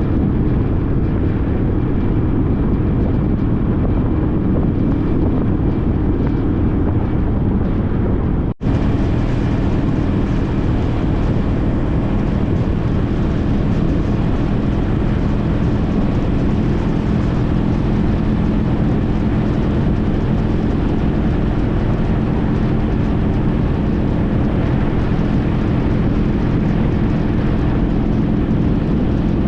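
2014 Honda CTX1300's V4 engine running at a steady cruise under riding wind noise. The sound drops out for an instant about eight seconds in, then carries on.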